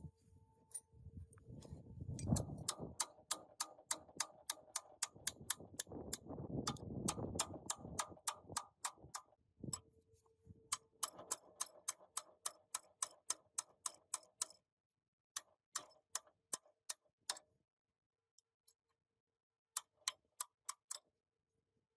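A steady train of sharp, even clicks, about three or four a second, with a low rumble under the first part. The clicks stop past the middle, and a short run of them comes back near the end.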